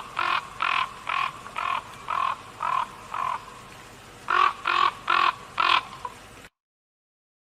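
Raven croaking: a quick run of about eight short, harsh calls roughly half a second apart, a pause of about a second, then four more.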